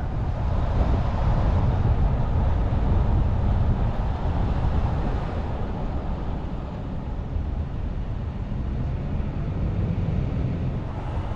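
Steady road noise from a moving vehicle: a low rumble of engine and tyres, with a hiss higher up.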